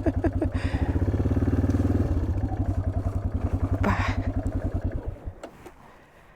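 1987 Yamaha XT600Z Ténéré's single-cylinder four-stroke engine running at low revs with an even thump, then cut off about five seconds in.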